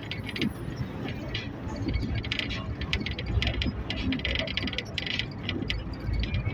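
A steady low rumble with many short clicks and rattles throughout.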